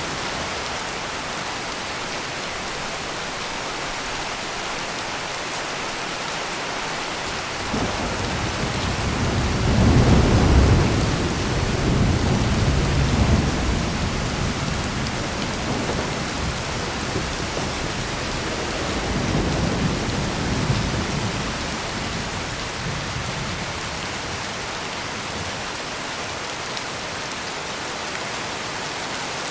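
Steady heavy rain with a long roll of thunder: the rumble builds about a quarter of the way in, is loudest around a third of the way through, swells again past the middle, and fades back into the rain.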